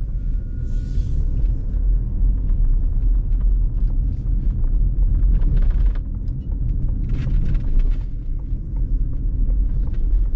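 Steady low rumble of road and tyre noise inside a Ford Mustang Mach-E cabin while it drives.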